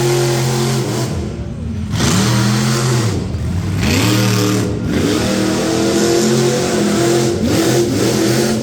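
Monster truck engine revving hard during a timed run. The throttle surges and lifts repeatedly, with short lifts about a second in, around three seconds and near five seconds.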